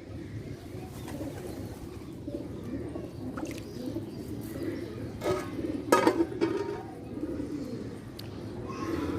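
Domestic pigeons cooing steadily at their loft, with two short sharp sounds a little past the middle.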